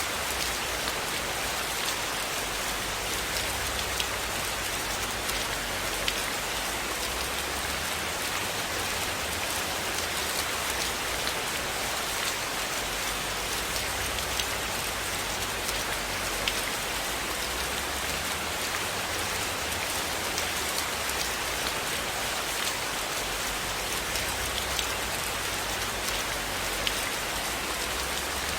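Steady rainfall, an even hiss with scattered small sharp ticks of individual drops.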